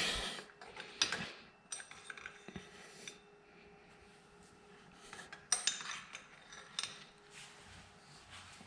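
Loose metal engine parts clinking and clattering as they are handled and set down. There are a few sharp clinks, and one leaves a brief ringing tone.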